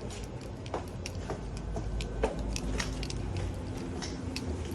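Scattered small clicks and crackles of handling noise close to the microphone, over a steady low hum.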